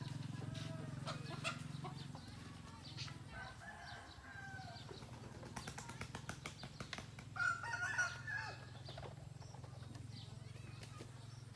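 A rooster crowing, the loudest call about two-thirds of the way in, over a steady low hum that drops away about two seconds in and returns later.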